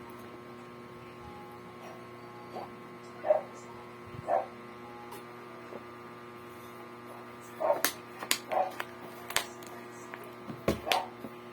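Steady electrical mains hum, with a few brief sharp sounds scattered through and a cluster of them near the end.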